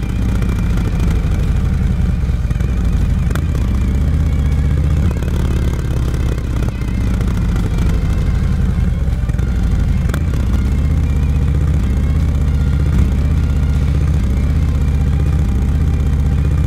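Motorcycle engine running steadily while riding, heard from the bike, with its pitch shifting slightly and a few sharp clicks.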